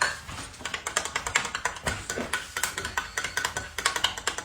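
A rapid, steady run of sharp clicks or taps, many each second, which cuts off suddenly at the end.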